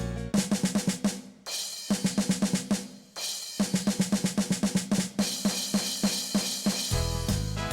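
A drum break in a rock song: the drum kit plays rapid, even snare and drum hits while the rest of the band drops out. The full band comes back near the end.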